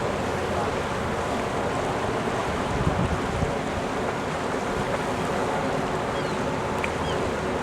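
Wind buffeting the microphone over a steady rushing waterside noise, with a faint steady hum underneath. There are low gusts about three seconds in and a few brief high chirps near the end.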